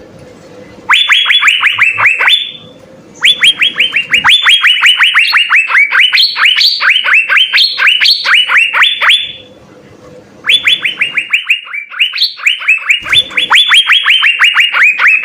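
Asian fairy-bluebirds (cucak biru) singing: fast runs of short, sharply descending whistled notes, about six or seven a second, in three bouts broken by short pauses.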